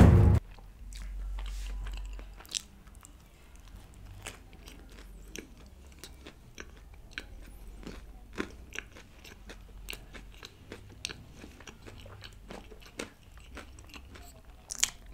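Close-miked chewing of crispy fried fast food, with scattered crunches and wet mouth clicks a second or so apart and one louder crunch near the end. A music bed cuts off just as it begins.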